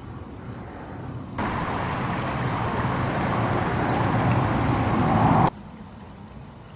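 Loud steady rushing noise that starts abruptly about a second and a half in, grows louder, and cuts off sharply about four seconds later, over a fainter rushing background.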